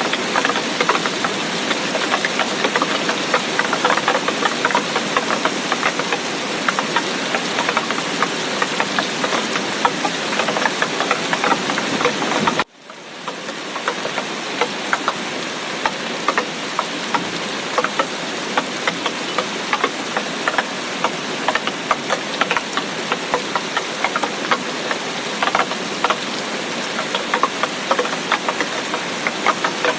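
Heavy tropical rain falling steadily, a dense hiss full of individual drop impacts. A little under halfway through, the sound cuts out abruptly for a moment and swells back in over about a second.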